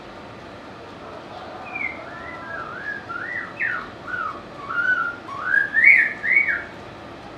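White-rumped shama singing: a phrase of clear, varied whistled notes sliding up and down, starting about two seconds in and growing louder toward the end.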